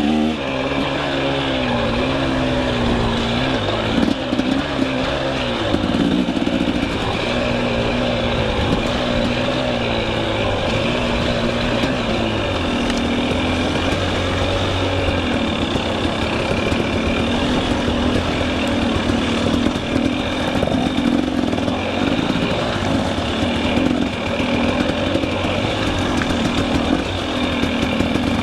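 Two-stroke KTM 300 EXC enduro dirt bike engine running under load on a trail, its revs rising and falling constantly as the throttle is worked, and a little steadier after about six seconds.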